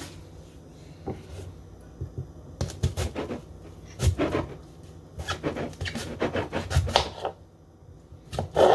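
Kitchen knife chopping an onion on a cutting board, in irregular runs of quick taps.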